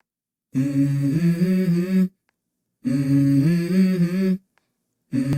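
Unaccompanied voice humming a short melodic phrase, repeated twice with brief silences between and starting a third time near the end: the intro of a song.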